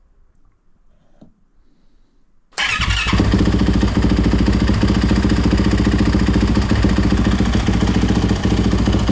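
A 2021 Yamaha WR450F's single-cylinder four-stroke engine starts about two and a half seconds in and then runs steadily.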